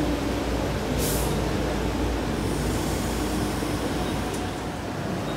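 A Queensland Rail train running with a steady low rumble and a faint whine, with a short hiss about a second in.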